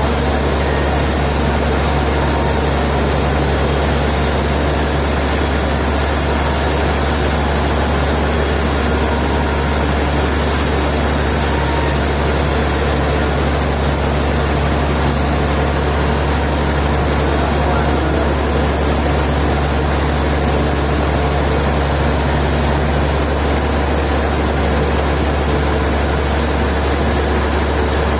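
Sawmill machinery running steadily: a heavy engine's constant low hum under an even, unbroken rush of noise.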